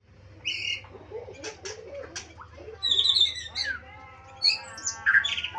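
A murai songbird singing a varied run of clear whistled notes, trills and downward-sweeping glides, louder and busier in the second half.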